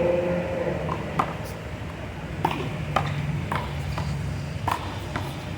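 Rubber handball being slapped by hand and smacking off the wall and pavement in a one-wall handball rally: a string of sharp smacks, irregularly spaced about half a second to a second apart.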